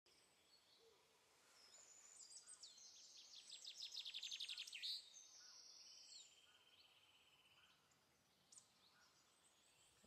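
Faint birdsong over a light hiss: a run of high chirps building into a rapid trill about four to five seconds in, followed by a steadier high trill that fades out.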